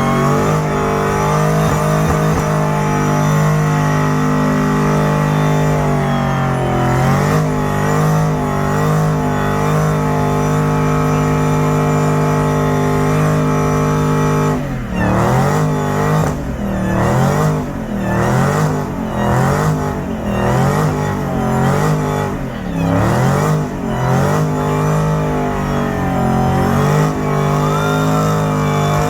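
Buick 455 big-block V8 in a Buick Electra doing a burnout. For about the first half the engine is held at high, steady revs. From about halfway it is revved up and down repeatedly, roughly once a second.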